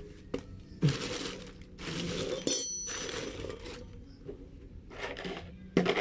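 Handling noise as parts are moved and searched through: several short rustling, scraping bursts with a few sharp clicks and a brief metallic clink about halfway through.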